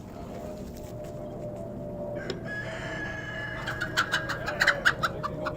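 A rooster crowing once: a long held call starting about two seconds in, breaking into a quick run of short sharp notes near the end.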